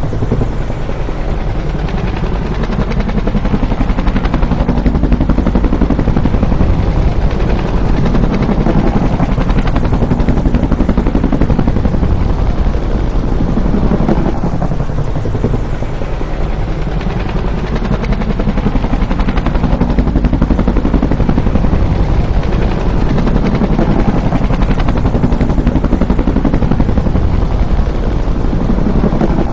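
Bell UH-1 "Huey" helicopter running continuously and loudly, the steady beat of its two-blade rotor over the turbine. Its pitch swells and falls in long sweeps about every fourteen seconds, like repeated flybys.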